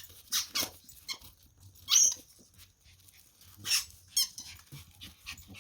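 Yorkshire terrier whining: about four short, high-pitched whines or squeaks.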